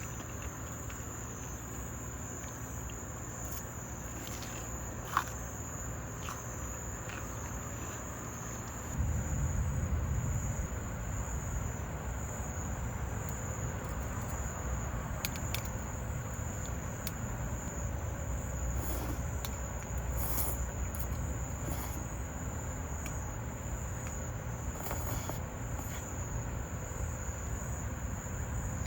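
Insects chirping in a steady, unbroken high-pitched drone, with a few faint ticks. A low rumble joins in about nine seconds in.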